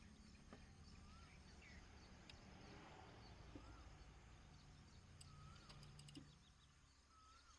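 Near silence with a faint low hum and a few brief, faint bird chirps scattered through.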